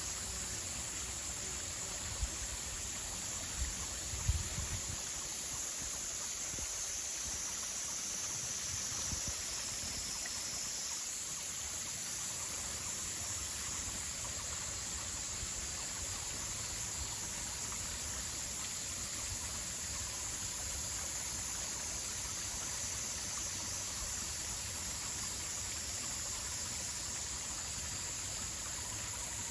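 Water running steadily, like a small stream or trickle, as an even, unbroken rush. A few dull low thumps come a few seconds in.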